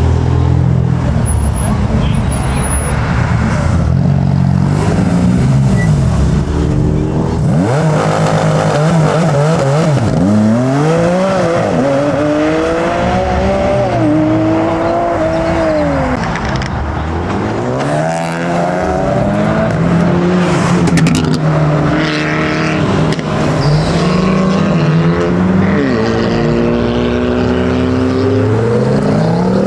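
Modified car engines idling, then revving and accelerating away one after another, their pitch rising and falling in repeated sweeps with another climb near the end. Voices murmur underneath.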